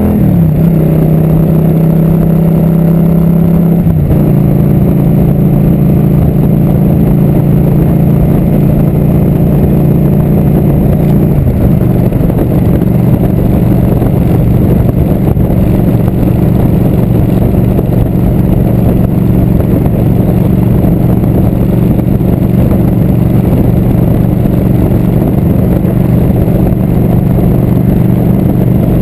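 Motorcycle engine pulling away and shifting up through the gears, its pitch stepping down at each shift (at the start, about 4 seconds in and about 11 seconds in), then running steadily at cruising speed.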